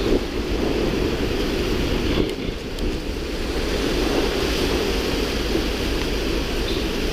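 Steady rushing noise of wind and sea, with a low rumble beneath it. It dips briefly a little over two seconds in.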